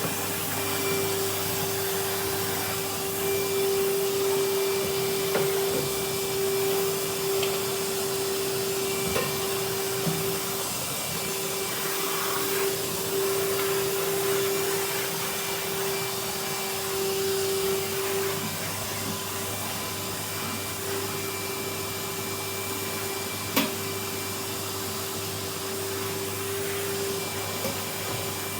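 Vacuum cleaner running steadily with a brush attachment, its motor humming at one pitch over the rush of air, with a few light knocks along the way.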